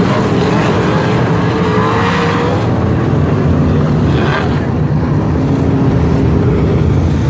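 Sprint car engines racing on the track: a loud, continuous engine drone with a note that rises and falls as the cars run past.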